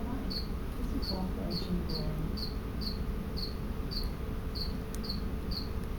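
A cricket chirping steadily, short high chirps at about two a second.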